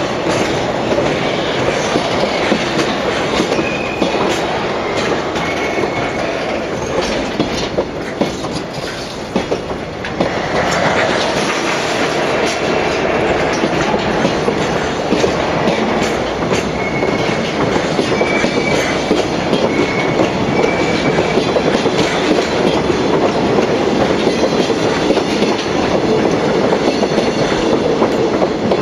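A freight train's wagons rolling past steadily, wheels clicking over the rail joints, with a few brief high wheel squeals.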